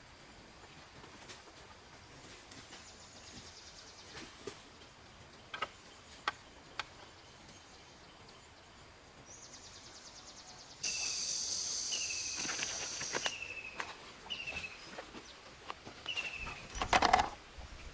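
Forest ambience: an insect's high, rapidly pulsing buzz swells loud about eleven seconds in and cuts off a couple of seconds later, while a bird gives a short falling call five times at about one-second spacing. Scattered small clicks throughout, and a loud thump near the end.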